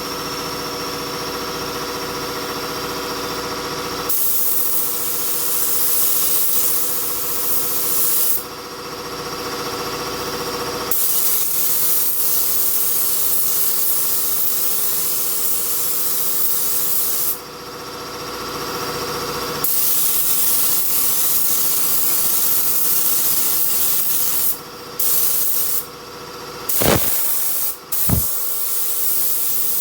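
Mini touch-up spray gun spraying clear coat: loud air hiss in several long bursts of four to six seconds as the trigger is pulled and released, then shorter spurts near the end. A steady machine hum runs underneath, and there are two sharp clicks near the end.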